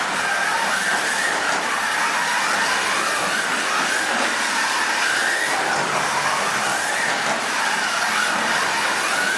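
Slot car's small electric motor whining, its pitch rising and falling as the car speeds up and slows through the track, with the hiss and rattle of the car running on the plastic track.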